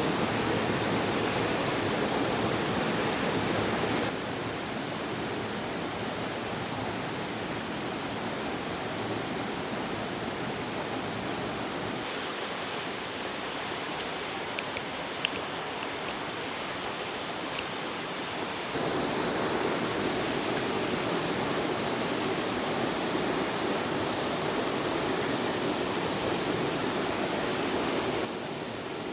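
Steady rushing of a flowing river, an even water noise that jumps in loudness abruptly a few times. A few faint clicks come through near the middle, one sharper than the rest.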